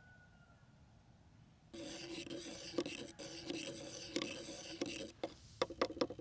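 A rasping, scraping sound starting a little under two seconds in, with scattered clicks, giving way to a quick run of sharp clicks near the end.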